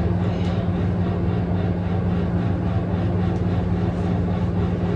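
A steady low mechanical hum with a constant low tone, unchanging throughout.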